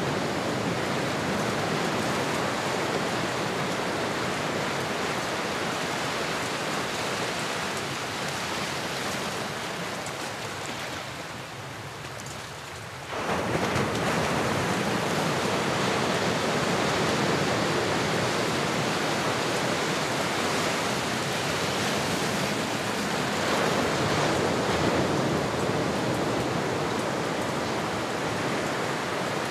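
Ocean waves and surf, a steady wash of water noise. It sinks lower for a few seconds, then comes back suddenly louder about thirteen seconds in.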